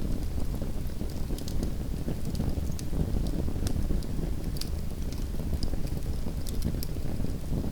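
Small wood fire in a fireplace burning with a steady low rumble and frequent sharp crackles and pops, several a second.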